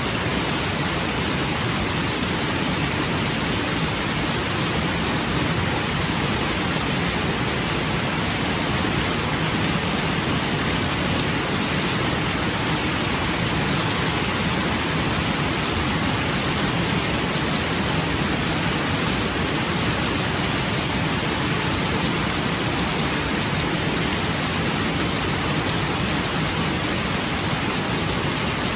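Steady rain falling, an even hiss without separate drops, thunder or changes in strength.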